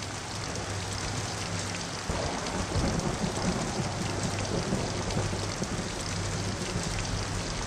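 Steady heavy rainfall. A low rumble joins it about two seconds in.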